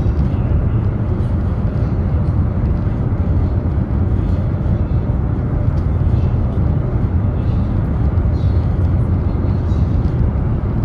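Steady low rumble of a high-speed train running at speed, heard inside the passenger cabin.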